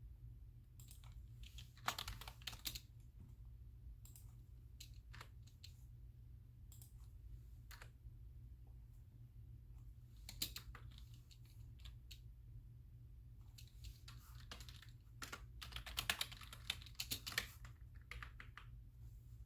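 Computer keyboard typing in short bursts of rapid keystrokes separated by pauses, with scattered single clicks in between. A steady low hum sits underneath.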